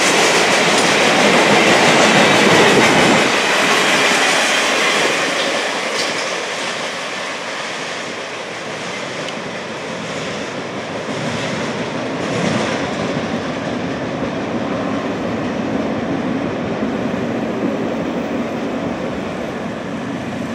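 Empty rail-train flatcars rolling past on steel wheels, with a loud clickety-clack over the first few seconds. The sound then drops away to a lower, steady rumble as the train recedes.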